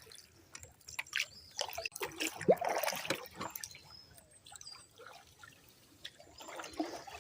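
Canoe paddle dripping and splashing water, with irregular light splashes and trickles that thin out in the middle and pick up again near the end.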